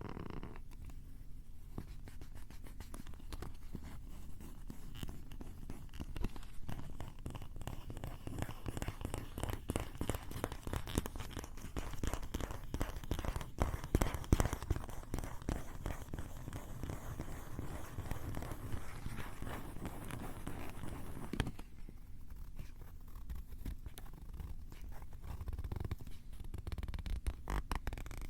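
Scratching and rubbing right on a Tascam recorder's microphones: dense crackly scratches over a low rumble, turning sparser and quieter about three-quarters of the way through.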